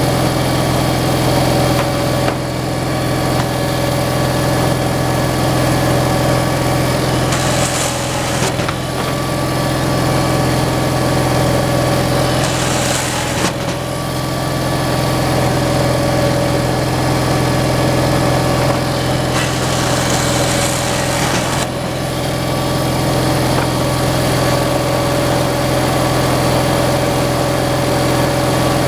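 Kindling maker's engine running steadily under the drone of the machinery, with three brief higher-pitched rasps partway through.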